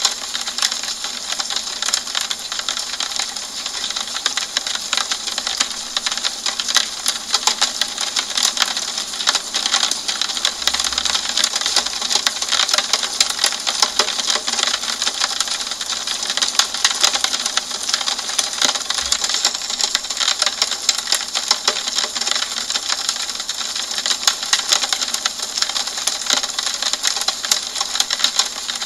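Steady rain falling on a window: a dense, even patter of drops ticking on the glass over a soft hiss.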